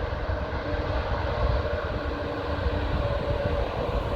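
Airbus A320neo's jet engines at takeoff power on the departure roll, a steady roar with a heavy low rumble and faint steady tones.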